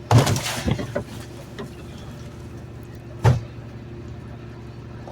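Garbage truck engine idling steadily, with a loud crashing clatter of trash being dumped into the rear hopper near the start and a single sharp bang a little after three seconds in.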